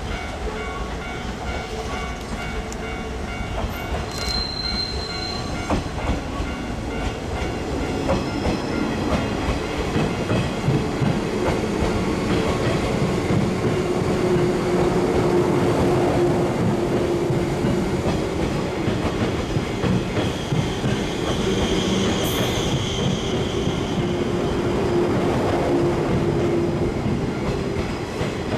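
JR East 185 series electric train passing over a level crossing, its wheels clacking over the rail joints, growing louder from about eight seconds in, with a steady wheel squeal twice. A level crossing warning bell rings repeatedly behind it.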